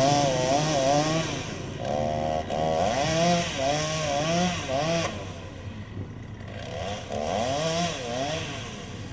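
Chainsaw cutting firewood, its engine pitch rising and falling over and over as it revs and bogs under load. It drops back for about a second a little past halfway, then picks up again.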